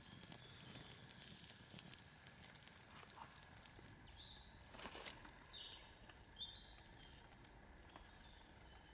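Faint bird calls: a few short high notes stepping downward, about four to seven seconds in, over scattered light drips of rain early on.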